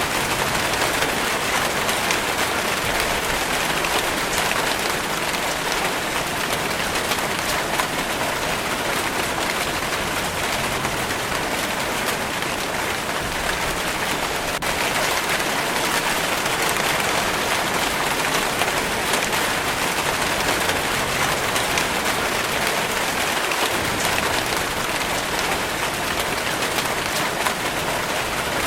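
Steady rainfall: an even hiss of rain with the patter of single drops running through it.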